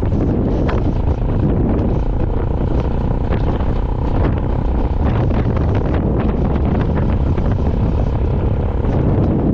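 Wind buffeting the microphone over the steady noise of a vehicle driving along a road, with scattered crackles.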